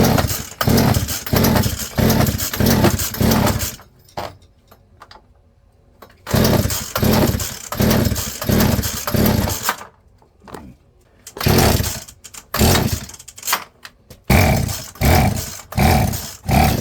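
Poulan P3416 34cc two-stroke chainsaw being pull-started with the choke on. The recoil starter cord is yanked in quick repeated pulls, about two a second, in three runs separated by short pauses. The engine turns over without catching.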